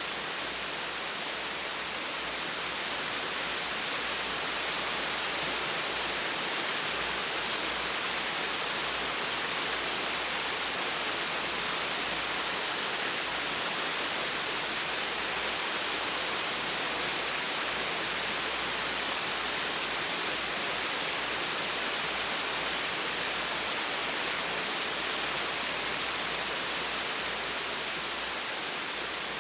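Small, gentle waterfall: water falling and splashing in a steady, unbroken rush.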